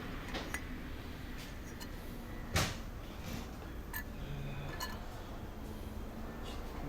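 Scattered clicks and light knocks of tools or parts being handled, with one sharper knock about two and a half seconds in.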